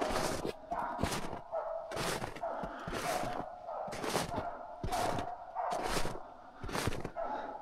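Hunting dog barking repeatedly at a freshly shot capercaillie, short sharp barks about one to two a second.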